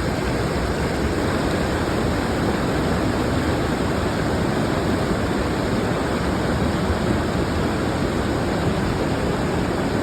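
Steady, loud rush of a large waterfall close by, unbroken throughout.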